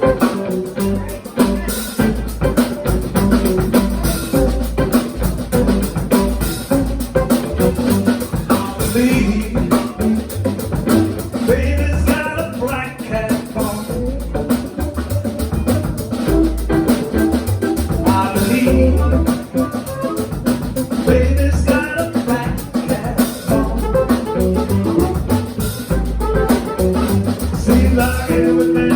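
Live band playing, with drum kit, bass and electric guitar keeping a steady beat, and singing at times.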